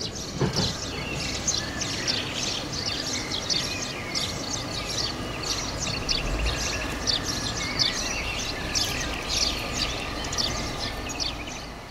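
Birds chirping and twittering, a quick, unbroken run of short high chirps.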